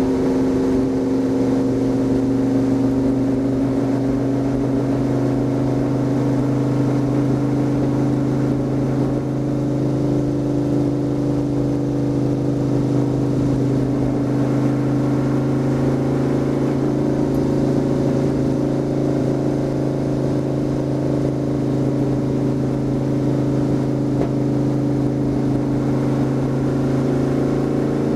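Stock car's V8 engine running hard at a steady, high pitch, heard from inside the cockpit at speed on the track.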